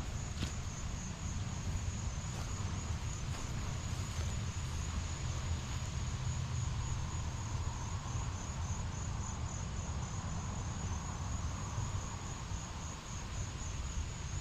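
Insects chirping in a steady, evenly pulsing high trill, over a low steady rumble.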